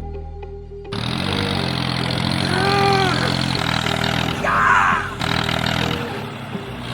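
An engine sets in about a second in and runs steadily, with a few short higher-pitched rising-and-falling tones over it near the middle.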